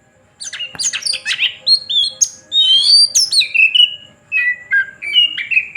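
Oriental magpie-robin singing a fast, varied run of whistles, sweeping notes and harsher calls, starting about half a second in.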